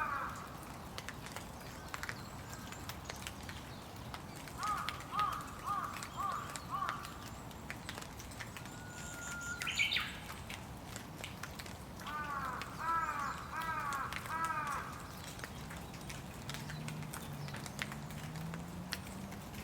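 Steady rain with scattered drips and taps, and a bird calling in two runs of short, quickly repeated notes, a few seconds in and again about two-thirds through.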